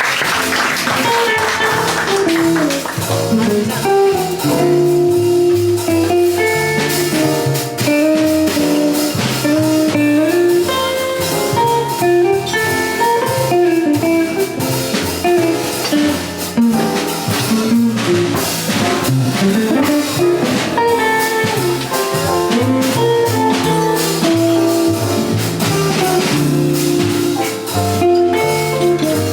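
Live jazz combo playing: a quick single-note melody line over a walking bass and drums with cymbals.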